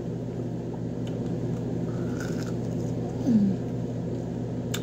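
A person biting and chewing crispy fried chicken, with a crisp crunch a little after two seconds and a brief falling 'mm' about three seconds in. A steady low hum runs underneath.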